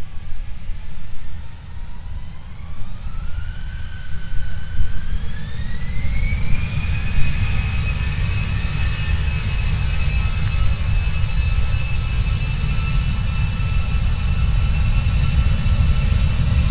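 Jet airliner's engines spooling up: a whine rises over several seconds, then holds at a steady high pitch over a heavy low rumble, as the engines come up to power.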